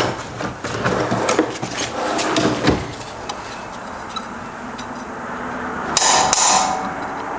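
Hand tools clicking and knocking on metal, with hammer taps on a pin punch to drive out the roll pin that holds a Subaru 6-speed manual transmission's shift mechanism. A longer rough, hissing burst comes about six seconds in.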